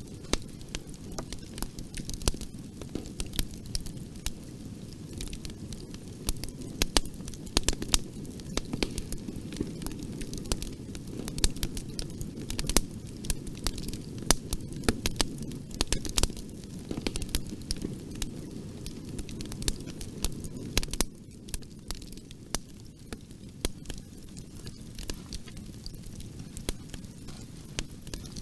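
Wood fire burning in a fireplace: a steady low rush of flame with frequent sharp crackles and pops, the crackling easing slightly near the end.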